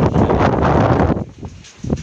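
Strong wind buffeting the microphone: a loud, low rumble for about a second, then easing off to a few lighter gusts.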